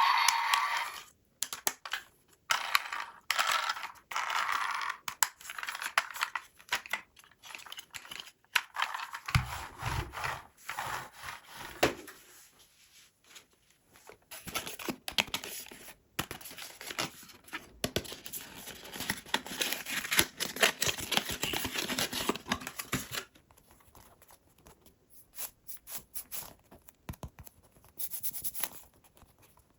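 Toy packaging being opened and handled: irregular rustling, tearing and scraping with scattered small clicks and knocks, busiest for the first twenty seconds or so and sparser near the end.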